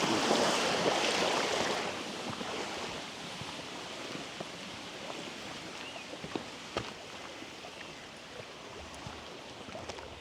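Rushing water of a mountain stream, louder for about the first two seconds, then dropping to a softer steady hiss, with a few faint clicks scattered through it.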